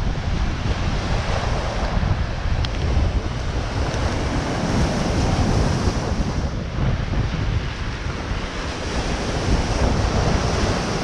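Strong wind buffeting the microphone with a steady, gusting low rumble, over the wash of waves on the shore of the Gulf of Finland.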